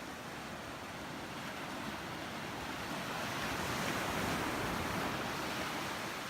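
Ocean waves washing onto the shore, a steady surf noise that swells to a peak about four seconds in and then eases off.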